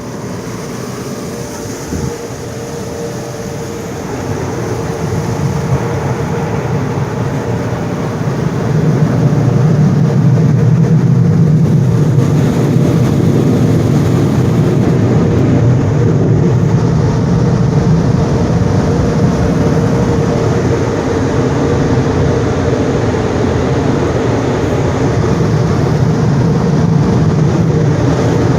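Automatic express car wash equipment running: a loud, steady rush with a constant hum under it. It swells about four seconds in and again near nine seconds, then holds.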